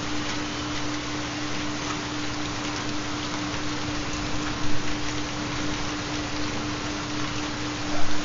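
Steady rain recording with a constant low steady tone under it, the carrier of a theta binaural beat. Two brief louder swells, about halfway and near the end.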